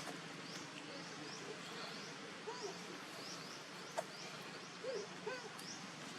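Faint outdoor ambience: a high, short rising chirp repeats about two to three times a second, with a few short, low arched calls about halfway through and near the end, and a single sharp click about four seconds in.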